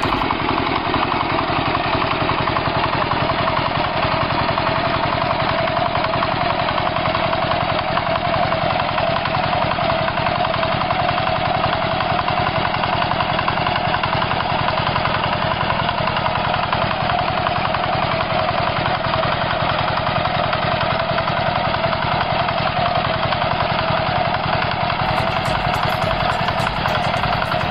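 Walk-behind tractor engine running steadily, with a fast, even chugging of firing pulses.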